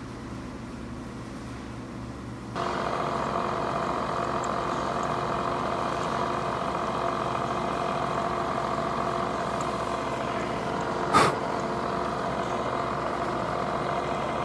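Milling machine running steadily with several steady tones, stepping up suddenly to a louder, fuller sound about two and a half seconds in. One sharp click comes about eleven seconds in.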